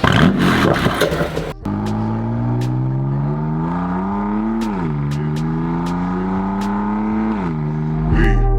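BMW M2 Competition's S55 twin-turbo straight-six through an Akrapovic Evolution Line titanium exhaust, accelerating hard: the engine note climbs steadily, drops sharply at an upshift about halfway through, climbs again and drops at a second upshift near the end. It opens with a short loud noisy burst.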